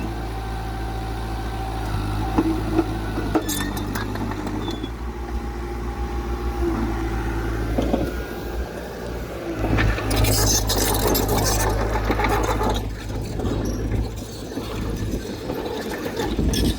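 Diesel engine of heavy earthmoving machinery running steadily with a low hum, with a few knocks and a louder noisy stretch partway through.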